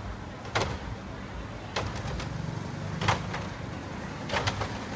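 Steady low rumble of road traffic with a handful of sharp, brief cracks and pops spread over a few seconds.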